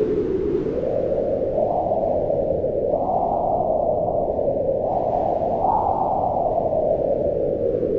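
Howling wind: a steady low rush with a hollow howl that rises and falls in pitch in slow swells every second or two.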